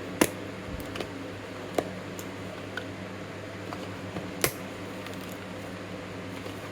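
A new camshaft bearing set and its packaging handled, giving three sharp clicks and a few fainter ticks over a steady low hum.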